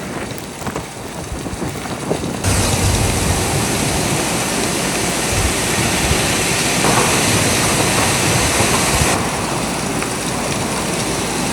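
Strong blizzard wind rushing and buffeting the microphone, jumping suddenly louder a couple of seconds in and easing a little near the end.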